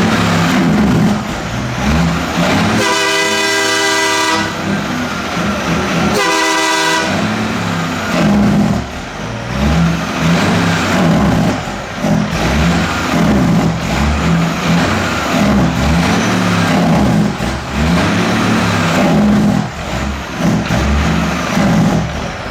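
Loud straight-piped diesel exhaust of a 2012 Peterbilt 389 semi truck, pulsing and rising and falling, with two blasts of its train horn, a longer one about three seconds in and a shorter one about six seconds in.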